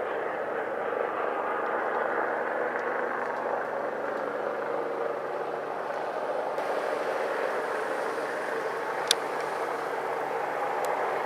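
Airbus H135 twin-turbine helicopter running steadily, its engine and rotor noise heard as an even rush with faint low tones underneath. A single sharp click sounds about nine seconds in.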